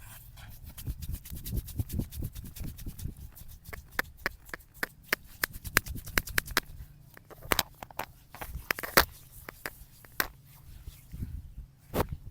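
Straight razor scraping through beard stubble in short, crackly strokes, quick and close together at first, then fewer and more spaced out.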